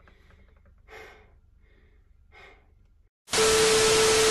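A few faint breathy sighs, then, after a short drop to silence, a loud TV-static glitch sound effect: a burst of hiss with a steady beep tone, lasting about a second, near the end.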